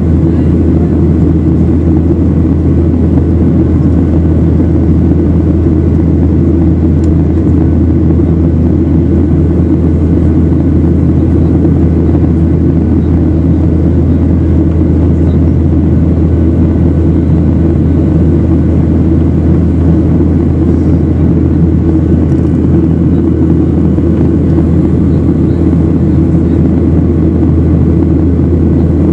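Steady, loud drone of jet engines and airflow heard inside an airliner cabin in flight.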